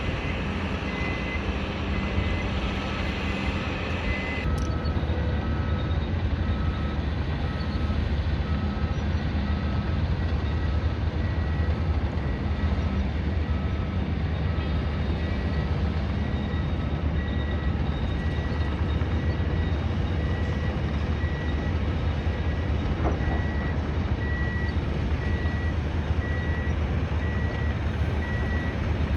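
Heavy construction machinery runs with a steady low diesel rumble while a back-up alarm beeps about once a second. A second, lower-pitched back-up alarm joins about four seconds in and stops about halfway through.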